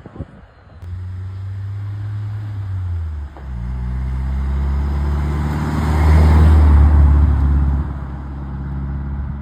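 A car engine running under steady throttle as the car drives past, its note stepping down about three seconds in and growing loudest around six to seven seconds in before easing off.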